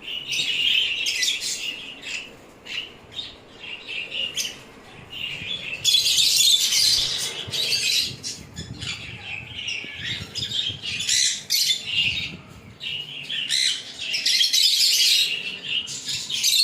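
A flock of show budgerigars chattering, a continuous mix of chirps and squawks that swells louder twice.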